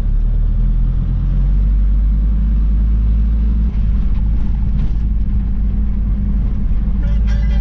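Steady low rumble of a Mercedes T1 camper van on the move, engine and road noise. Music comes in near the end.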